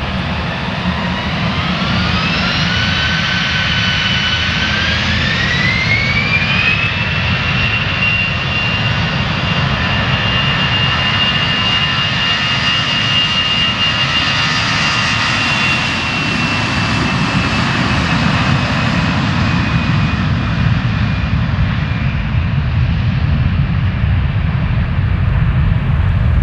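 CFM56-5B3/3 turbofan engines of an Airbus A321ceo spooling up for takeoff: a whine rises in two steps over the first several seconds, then holds as a steady high whine over a deep rumble, sinking a little in pitch near the end.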